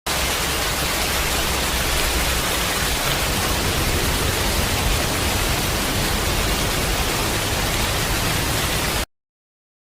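Heavy rain falling, a loud steady dense hiss with a low rumble under it, cutting off abruptly about nine seconds in.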